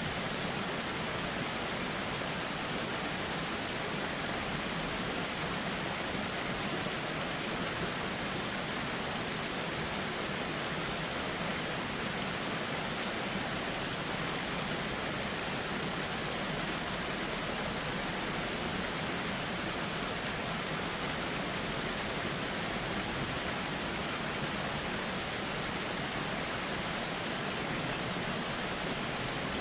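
A river flowing: a steady, even rush of running water with no separate splashes or other events.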